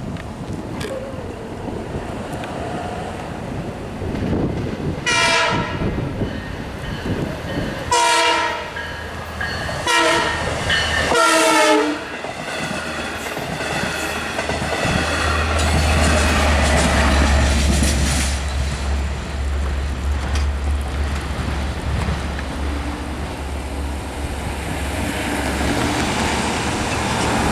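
Diesel-hauled LIRR double-decker passenger train sounding its horn for the grade crossing in the standard long, long, short, long pattern, then passing close by with the locomotive's low engine rumble and the steady roll and clickety-clack of the bilevel coaches.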